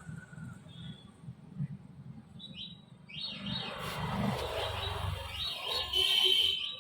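Small birds chirping: a few short high chirps, then a quick run of repeated chirps near the end, over a faint low rumble.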